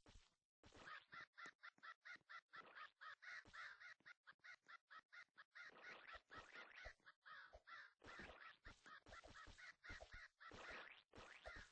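A bird calling in a long run of short, rapidly repeated calls, several a second, with a brief pause just after the start.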